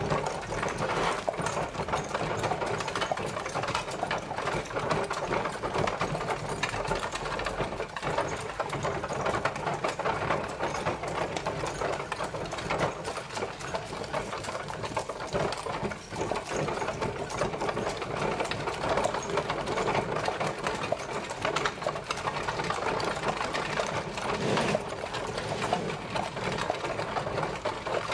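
Horse-drawn carriage travelling, a steady, dense rattling clatter.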